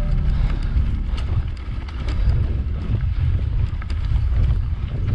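Wind rumbling on the microphone of a camera moving at riding speed, with a few light clicks and knocks from the mountain bike over the trail.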